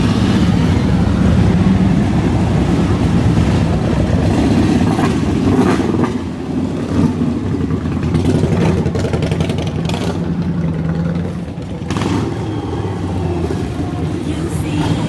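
Motorcycle engines running, a steady low engine sound with a few short, sharper sounds through it.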